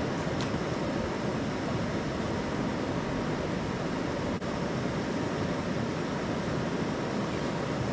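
Steady rushing noise with a faint click about half a second in.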